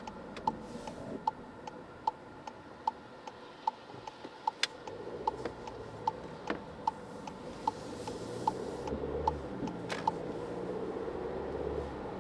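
Car turn-signal indicator ticking steadily inside the cabin, about two and a half ticks a second, then stopping about ten seconds in. Under it runs steady road noise, and a low engine hum builds in the second half.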